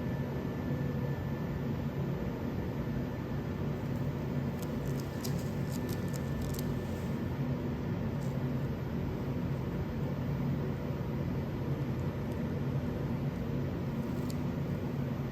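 Steady motor hum with a hiss over it, unchanging throughout, with a few faint light ticks about five to seven seconds in.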